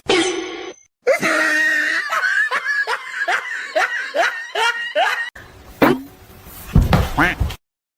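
Laughter, a run of evenly repeated 'ha' bursts, about three a second, that stops abruptly just past halfway, with a few short louder cries near the end.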